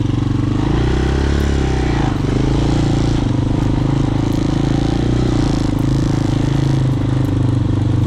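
Hawk 250 dirt bike's single-cylinder engine running, its revs rising and falling about a second in as the bike pulls away, then running steadily.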